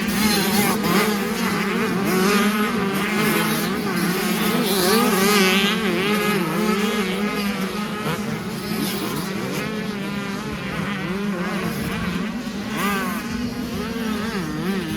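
Several motocross bikes running together on a track, their engines revving up and down in overlapping, wavering pitches.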